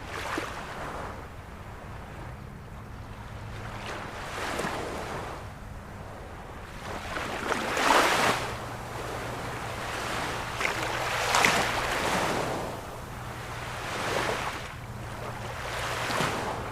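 Ocean waves breaking one after another, each a rushing surge of surf about every three to four seconds, the loudest breaks about halfway through.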